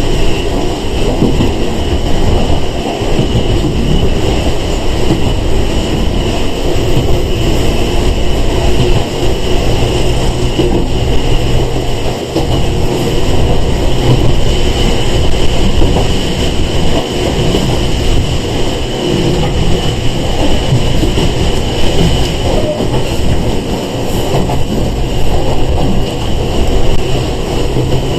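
Cabin running noise of a Sangi Railway 101-series electric train (a former Seibu 401 series) under way: a steady rumble of wheels and motors with a constant high tone above it.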